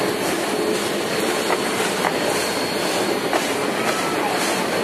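Old passenger coaches of a train rolling past on the rails: a steady rumble of wheels on track with a few sharp clicks at the rail joints, and a faint thin wheel squeal near the end.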